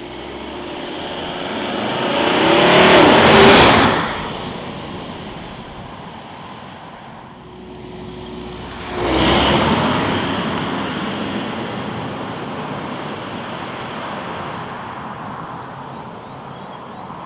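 The 2.4-litre twin-turbo diesel five-cylinder of a 2016 Volvo V60 Cross Country D4 driving past at speed. It builds to a peak about three seconds in, drops in pitch and falls off sharply. About nine seconds in it comes again with a sudden rise, then fades slowly as the car moves away.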